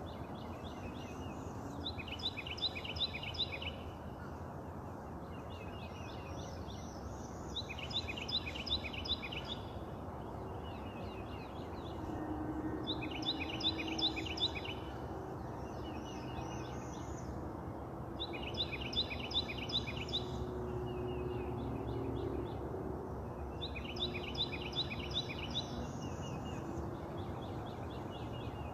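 A songbird singing: short phrases of rapid repeated high chirps, one phrase about every five or six seconds, over a steady low outdoor background rumble.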